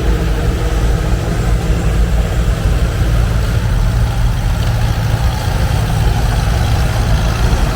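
Farmall 200 tractor engine running steadily at low speed, a deep, even engine note.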